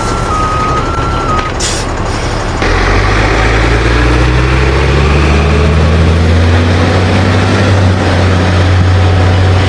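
NABI 40-LFW transit bus diesel engine pulling away. An alternating two-tone electronic chime sounds for the first second and a half, a short hiss of air comes near 2 s, and then the engine grows louder and its pitch rises steadily as the bus accelerates.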